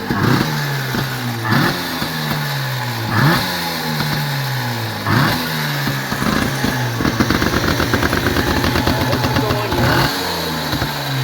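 1953 Motobi twin-cylinder two-stroke motorcycle engine running just after it started, the throttle blipped again and again, each rev falling back toward idle.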